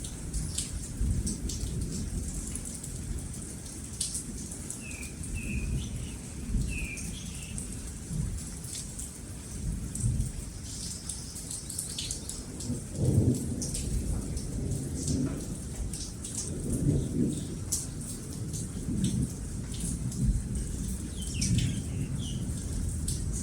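Steady rain with rolling thunder rumbling underneath, swelling loudest about 13 seconds in and again around 17 seconds. A few short bird chirps come through about 5 seconds in and again near the end.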